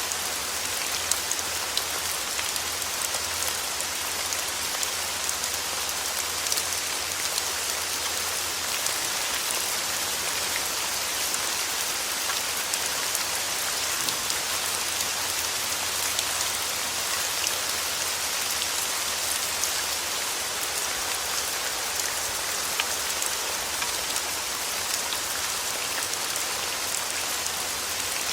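Steady rain falling on a surface, an even hiss dotted with the ticks of individual drops striking.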